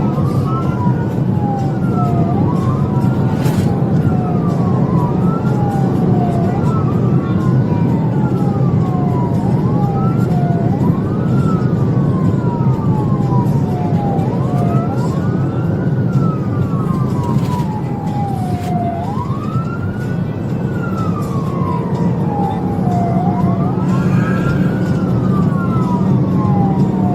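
Police car siren in wail mode, rising quickly and falling slowly every two to three seconds, over steady engine and road noise from a vehicle at speed in a pursuit.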